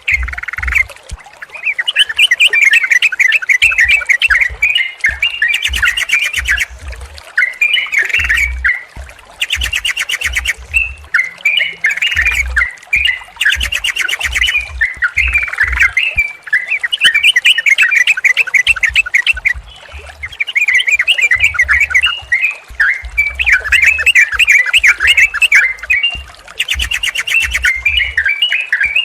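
Sooty-headed bulbuls (trucukan) chattering and singing in a near-continuous stream of short, bubbly phrases, broken by a few short buzzy bursts and brief pauses.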